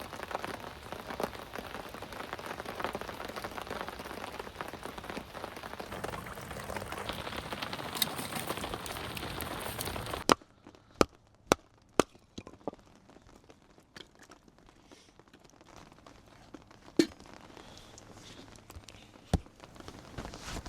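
Steady hiss of rain for about ten seconds, then it cuts off suddenly to a quieter campfire with several sharp, separate pops and cracks.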